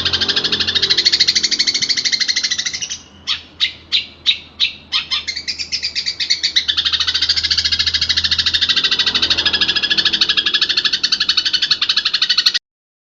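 Cendet (long-tailed shrike) song with mimicked fill phrases: fast, continuous high chattering, broken a few seconds in by a run of separate sharp notes about three a second, then chattering again until it cuts off suddenly near the end. A faint low hum runs underneath.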